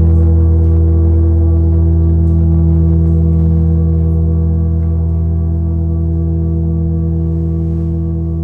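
A sustained low drone of many steady tones sounding together, slowly fading.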